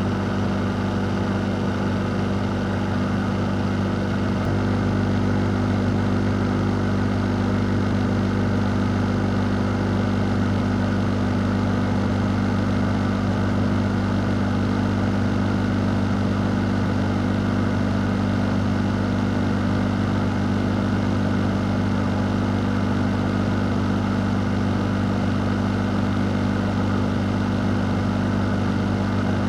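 Fan running steadily: an even rush of moving air over a constant low motor hum, with no change in speed.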